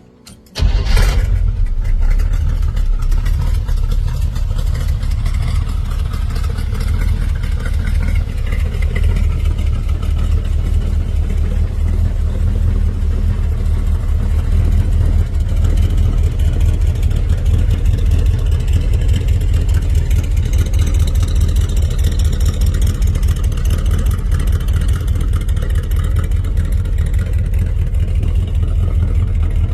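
The 1931 Chevrolet hot rod's small-block V8 engine catches about half a second in, then runs at a loud, steady idle with a low rumble.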